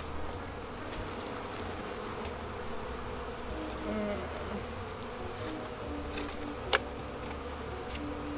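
Honeybees buzzing steadily around an open hive, with a single sharp click about two-thirds of the way through.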